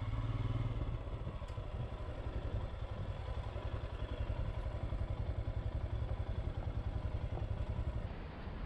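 Motorcycle engine running with an even, rapid low pulse that eases slightly near the end.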